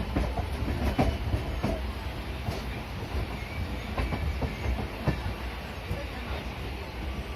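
Moving passenger train: a steady low rumble from the running coach, with the wheels clacking over rail joints every second or so.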